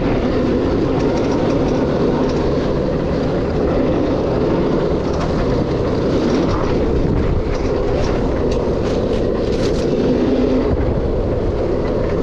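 Dirt bike engine running steadily under way on a trail, heard from on board, with a few short clicks about eight to ten seconds in.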